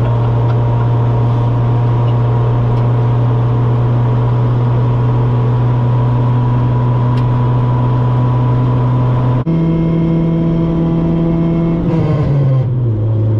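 1996 Acura Integra driving at highway speed, heard from inside its stripped cabin: a loud, steady engine and exhaust drone over road noise. About nine seconds in the drone jumps abruptly to a higher pitch, and near the end the pitch falls away as the revs drop.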